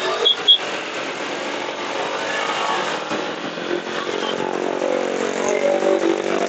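Motorcycle riding in traffic: a steady engine and road noise, with two short high beeps right at the start. From about the middle an engine note grows louder and slides in pitch as it revs.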